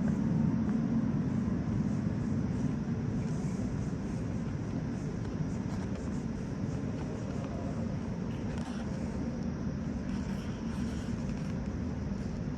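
Moscow Metro train running: a steady low rumble that eases a little over the first few seconds, then holds even.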